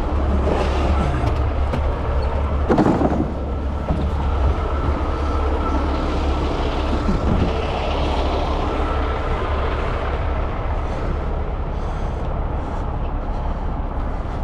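Heavy tow truck running with a steady, deep engine and road rumble. There is a brief louder clatter about three seconds in.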